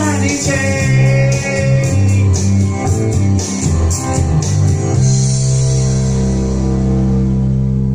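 Instrumental ending of a rock song: electric guitars, bass and drums with cymbals, then about five seconds in the band lands on a final chord that is held and rings on.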